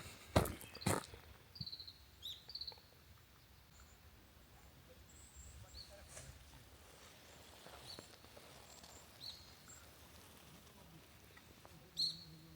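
Small birds giving short, high chirps here and there in a quiet wood, one louder call near the end. A few sharp knocks in the first second.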